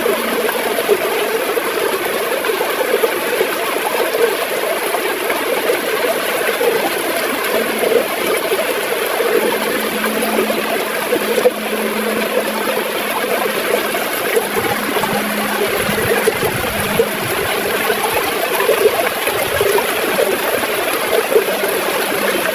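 Gurgling river water flowing steadily, with small irregular splashes. A faint low hum comes and goes in the second half.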